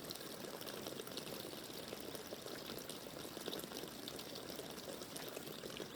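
Water running or pouring: a steady splashing trickle.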